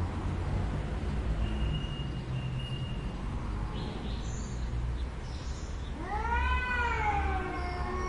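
A cat giving one long meow about six seconds in, rising and then falling in pitch, over a steady low rumble.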